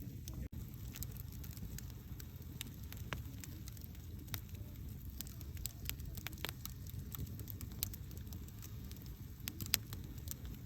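Campfire burning: a steady low rumble of flames with frequent sharp crackles and pops, one louder pop near the end. A split-second dropout cuts the sound about half a second in.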